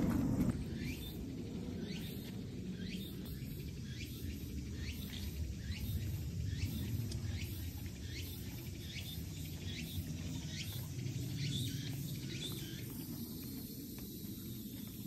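A bird calling a long run of short downward-sweeping notes, about two a second, that stops shortly before the end, over a low steady rumble.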